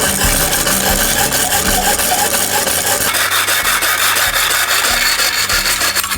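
Repeated back-and-forth rasping strokes of hand-tool cutting or filing work, changing in texture about three seconds in.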